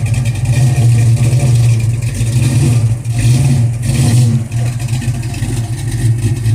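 Car engine running steadily close by, with a low, even exhaust note.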